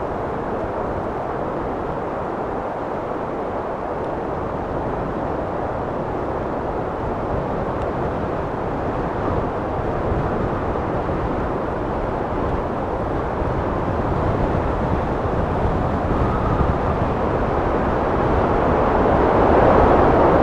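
Steady rushing wind, a dense low roar without whistling, swelling gradually louder near the end.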